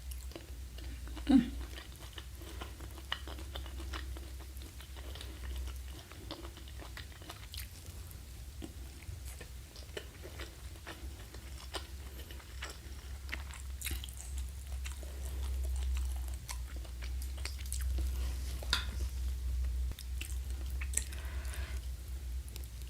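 Close-miked chewing and biting of jengkol balado (dog fruit in chili sauce), with many small wet mouth clicks and a sharper bite about a second in. A steady low hum runs underneath.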